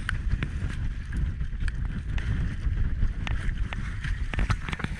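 Wind buffeting the microphone on a small boat at sea: a gusty low rumble, with a few short clicks scattered through it.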